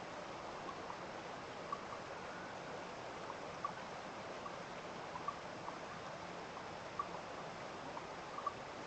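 A stream running steadily, with short, sharp ticks coming about once a second over the flow.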